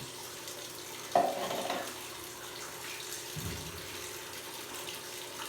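Steady rush of running water, with a short louder clatter about a second in and a brief low thump about three and a half seconds in.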